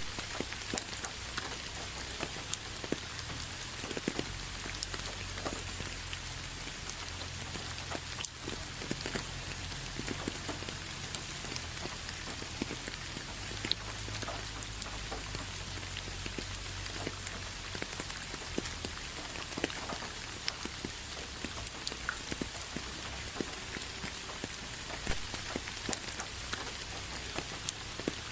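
Steady rain, with many separate drops ticking on a surface over an even hiss and a low rumble underneath.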